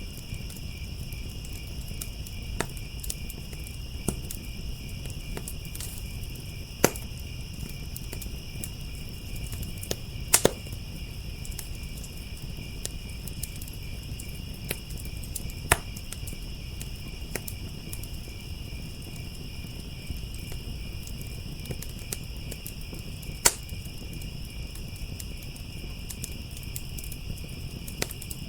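Wood fire crackling, with sharp pops every few seconds (a double pop about ten seconds in), over a steady, high-pitched chorus of crickets trilling.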